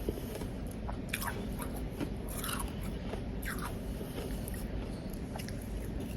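Close-miked biting and chewing of powdery ice, crunching, with three sharper crunches about a second apart in the middle.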